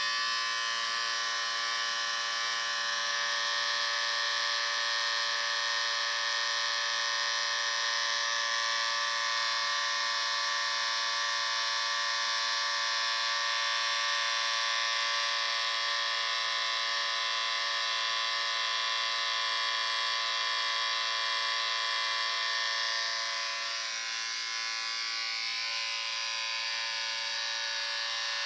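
Electric shaver running continuously: a steady, high motor buzz with a hiss above it. About 23 seconds in it drops slightly in loudness and its upper tones shift a little.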